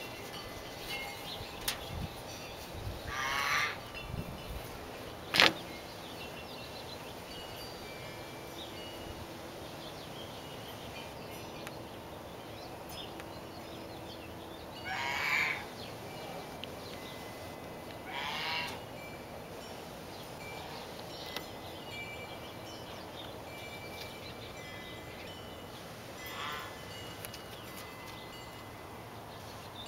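A bird calling out of sight, four short calls spread out, each under a second. A single sharp click about five seconds in is the loudest sound.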